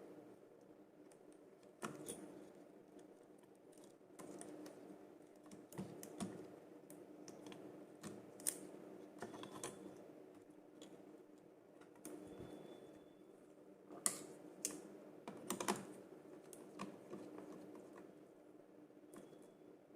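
Scattered light clicks and taps of wires and small parts being handled while a lead is fastened into a miniature circuit breaker's terminal, over a faint steady hum.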